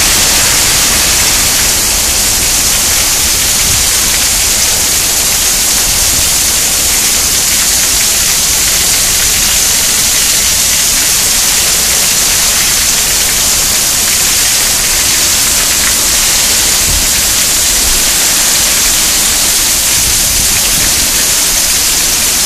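Torrential tropical-storm rain pouring down onto a pool deck, a loud, steady hiss without a break.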